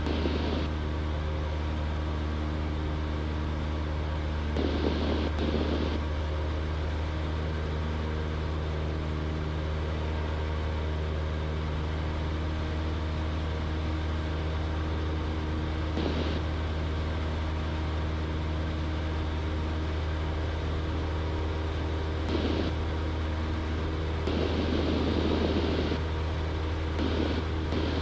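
Steady drone of a Cessna 172's piston engine and propeller in cruise, heard in the cabin, with a few brief bursts of noise over it.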